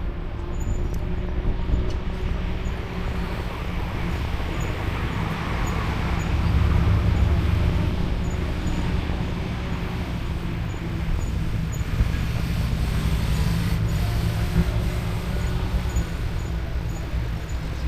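Road traffic going by, heard from a moving e-bike over a steady low rumble; one vehicle swells louder and passes about six to eight seconds in.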